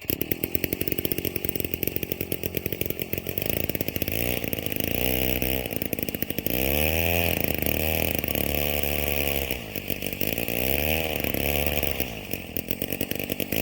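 Two-stroke gas ice auger running and drilling through lake ice, its engine revving up and down several times in the middle as the bit cuts, then easing near the end.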